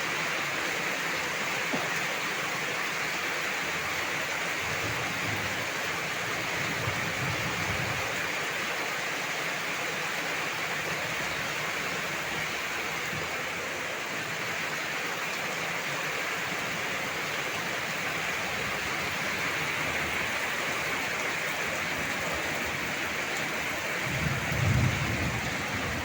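Heavy rain falling in a steady downpour, an even hiss, with a few brief low rumbles midway and near the end.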